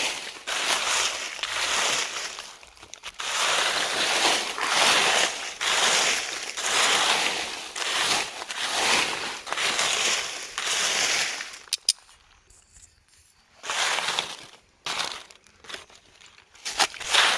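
Rhythmic rustling and scraping at about one stroke a second, as of leaves, twigs or soil being swept or handled. It stops for a moment about twelve seconds in, then comes back as irregular rustles and crackles.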